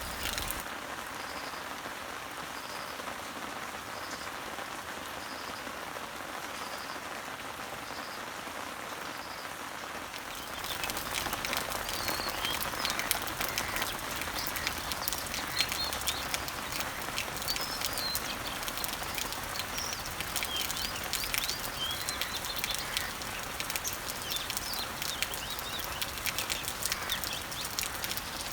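Steady rain falling on leaves and trees, with a bird repeating a short high note about once a second. About ten seconds in, the rain gets louder, with many close drops ticking and birds chirping over it.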